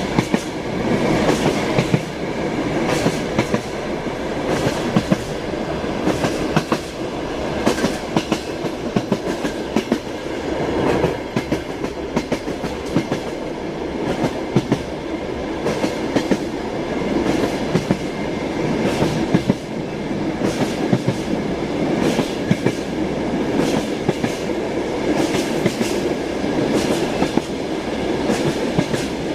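Passenger train running, heard from inside a compartment: the wheels clack over the rail joints in repeated sharp knocks over a steady rumble of the carriage.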